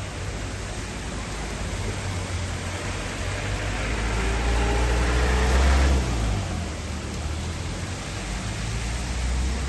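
Steady rain with a low rumble underneath. About four seconds in, a car passes on the wet road: its tyre hiss swells and then drops away quickly at around six seconds.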